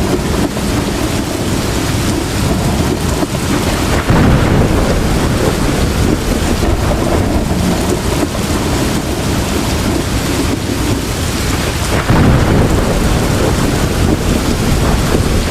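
Heavy rain pouring steadily, with deep rumbles of thunder swelling about four seconds in and again about twelve seconds in.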